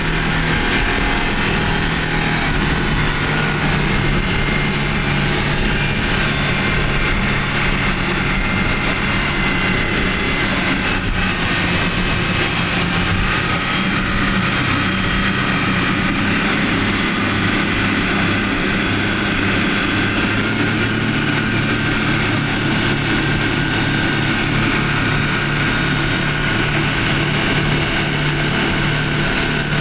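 Passenger speedboat's engines running steadily under way, heard from on board, with a constant engine drone and water and hull noise.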